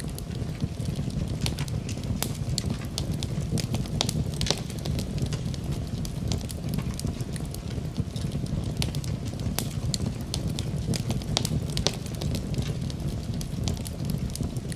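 Wood fire burning in a fireplace: a steady low rumble of flames with frequent irregular sharp crackles and pops of burning wood.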